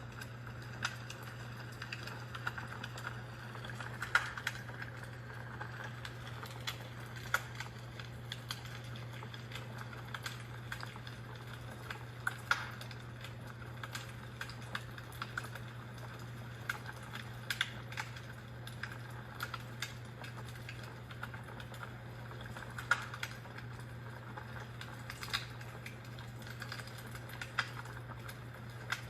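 Fire crackling in a fireplace: irregular sharp pops and snaps, a few louder ones standing out, over a steady low hum.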